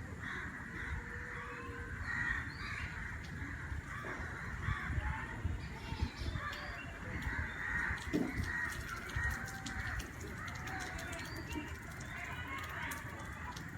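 Many birds calling and chirping at once, a continuous overlapping chorus of short calls, over a steady low rumble.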